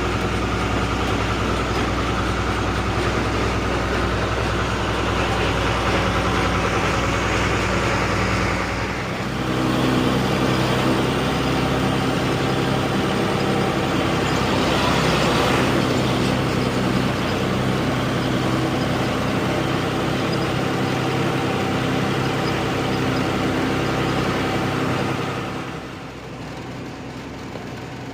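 Truck engine running steadily on the move, its hum shifting in pitch about a third of the way in and dropping in level near the end.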